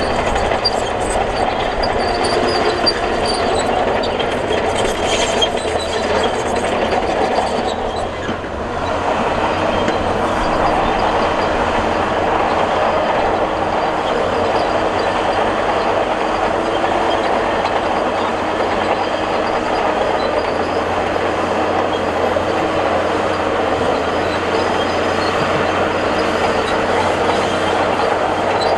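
Crawler bulldozer at work: its steel tracks clatter and squeal over the steady drone of the diesel engine, with a brief dip in level about eight seconds in.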